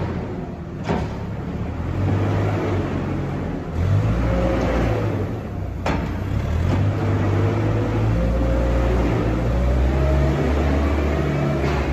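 A large engine running steadily, its low drone shifting pitch a few times, with a faint whine rising and falling above it and a few sharp clicks.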